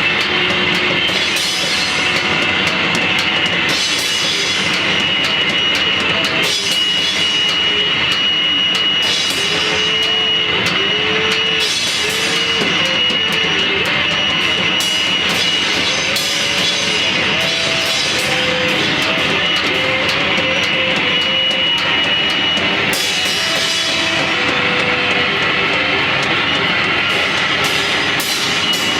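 A band playing loud, dense noise rock: a thick wall of sound with a steady high ringing tone held over it and wavering pitched notes underneath.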